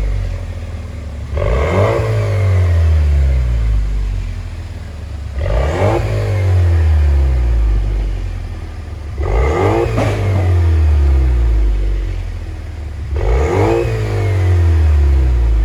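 Jeep Wrangler engine through an aftermarket dual-muffler performance exhaust, revved four times: each a quick climb in pitch followed by a slow fall over a few seconds.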